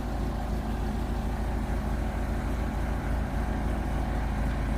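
Backhoe's diesel engine running steadily, an even low drone that holds its pitch.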